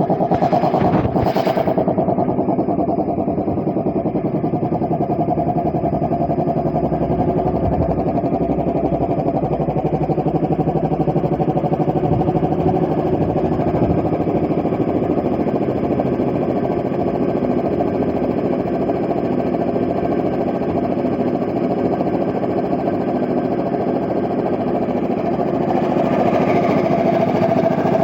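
Piston air compressor with a newly fitted Puma compressor head, driven by its electric motor and running steadily with a fast, even pumping pulse. There are two brief sharp sounds about a second in.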